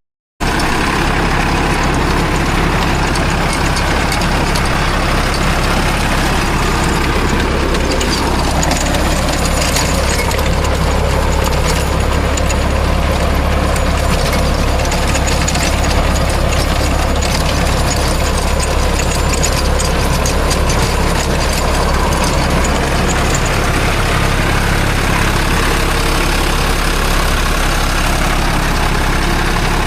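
Sonalika DI 35 tractor's diesel engine running steadily and loud, working a 9-foot rotavator, with the engine note dipping briefly about eight seconds in.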